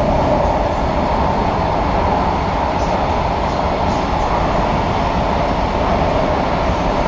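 SMRT C151A train running at speed, heard from inside the car: a loud, steady rumble and rush with a strong hum running through it.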